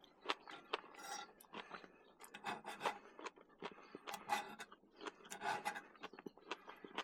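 Quiet, irregular scraping, rubbing and clicking of small objects being handled, a few strokes each second.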